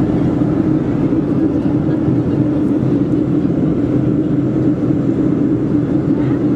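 Steady cabin noise inside a Boeing 737-400 in descent: the even rush of airflow and the CFM56 engines, with a constant low hum and no sudden sounds.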